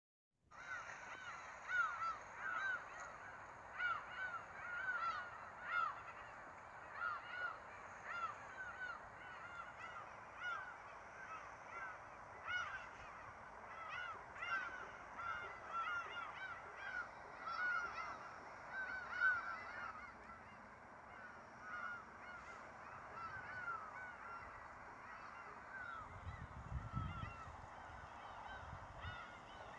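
Many short honking animal calls, several a second, overlapping throughout, with a brief low rumble near the end.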